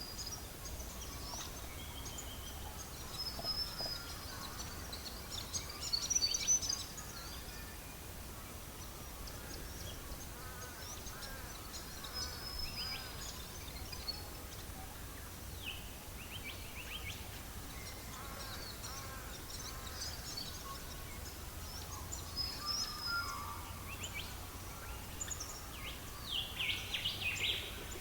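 Wild birds chirping and trilling, many short high calls overlapping throughout, over a steady low hum.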